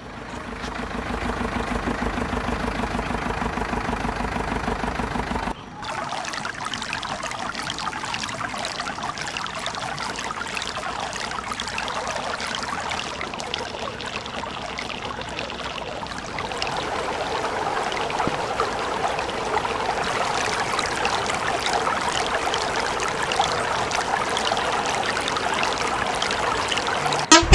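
A small motor from a model vehicle runs steadily for about five seconds. After a short break comes a steady grainy trickling and pouring sound, like wet cement or water being poured.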